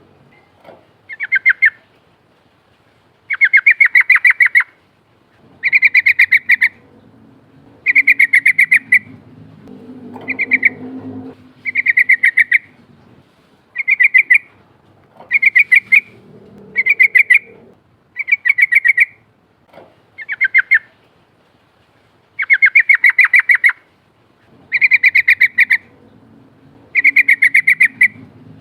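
Yellow-vented bulbul (trucukan) singing: loud short phrases of rapid bubbling notes, each about a second long, repeated every second or two.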